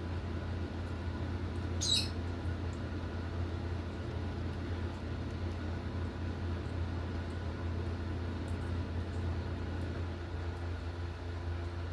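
Steady low hum throughout, with one short high-pitched squeak about two seconds in from a baby lovebird chick.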